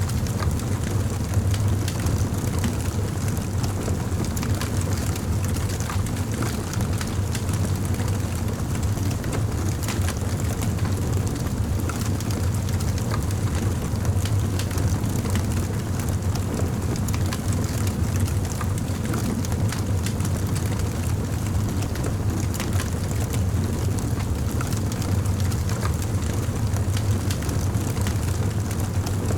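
Campfire burning steadily: an even, low rush of flame with frequent small crackles and pops from the burning wood.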